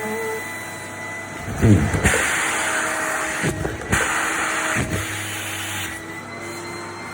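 Vacuum cleaner running with a thin, steady motor whine. From about two seconds in, the rush of air grows louder for roughly four seconds, broken by a few low thumps, then settles back.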